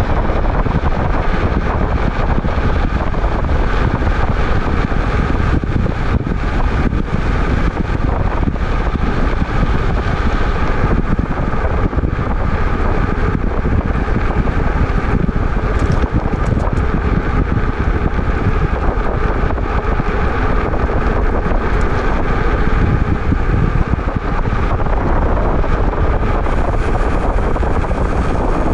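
Wind rumbling hard on the microphone of a moving e-bike, a loud steady noise, with a fainter steady hum of the ride above it.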